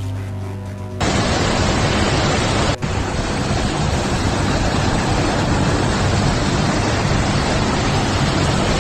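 Loud, steady rushing storm noise that cuts in abruptly about a second in, with a brief drop partway, and stops abruptly at the end, over faint background music.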